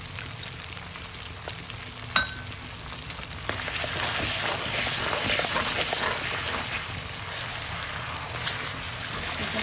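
Ginger-garlic paste frying in hot oil, sizzling and crackling. There is a sharp metallic clink about two seconds in, and the sizzle grows louder from about three and a half seconds as a spoon stirs the paste through the oil.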